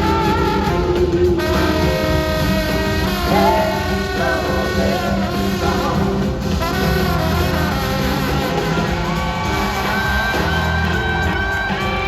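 Live band music: an instrumental passage of a soul-blues song, with a horn section and electric guitar over bass and drums.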